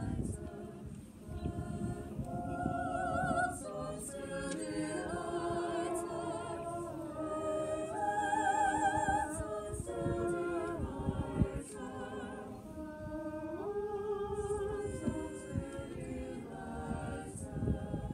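A choir singing in parts, holding and moving through chords, with vibrato on the sustained notes.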